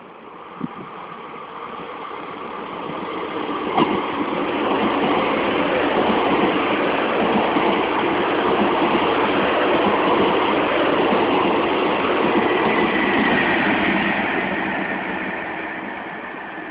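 A train passing: its noise builds over the first few seconds, stays loud and steady with a low hum for about ten seconds, then fades away near the end. A single sharp click sounds about four seconds in.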